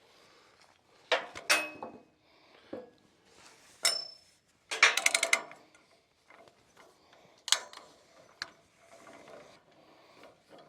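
Metal clanks and knocks from handling a winch and its mounting hardware. One knock about four seconds in rings briefly. Just after it comes a quick rattling run of clicks like a ratchet or gear, then another knock near the end.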